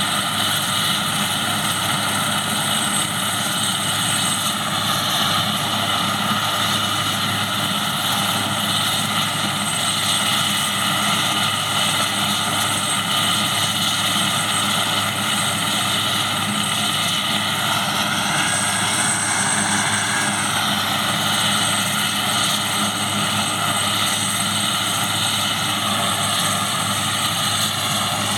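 Airbus AS532AL Cougar helicopter's twin turboshaft engines and rotor running steadily: a continuous turbine whine over the rotor noise. The whine's pitch rises and falls back slightly about two-thirds of the way through.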